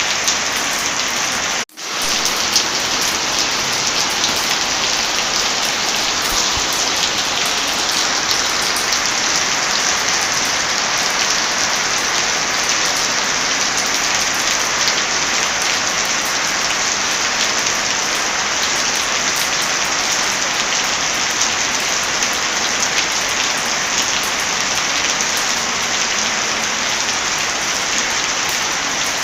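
Heavy rain falling steadily, with fine crackling ticks of a wood fire mixed in. The sound cuts out for an instant just under two seconds in, then resumes unchanged.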